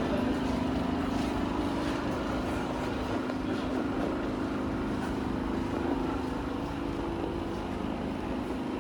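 Steady mechanical hum with a low droning tone, even throughout.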